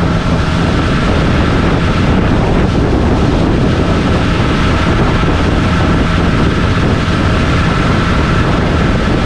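Boat's outboard motor running steadily under way, with wind and water noise.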